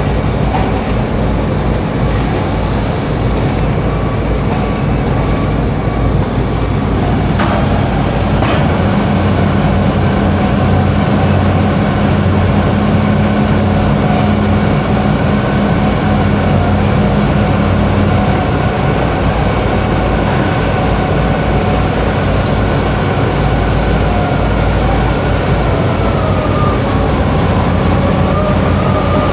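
Heavy diesel engine of construction machinery running steadily with a low hum, with a couple of short knocks about seven and eight seconds in.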